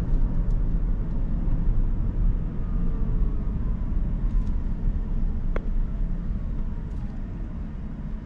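Steady low road rumble and tyre noise from a moving 2023 Rivian R1S quad-motor electric SUV on 22-inch wheels, heard inside the cabin, with faint whines that slowly drop in pitch. A single sharp tick sounds about five and a half seconds in.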